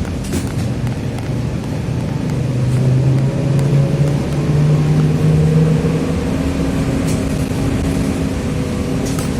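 TrolZa-5275.05 'Optima' trolleybus under way: its DK-213A traction motor and Ishimbay drive axle whine, rising in pitch as it picks up speed from about two seconds in. The whine fades about six seconds in, leaving the running rumble. There is a short click near the start and another near the end.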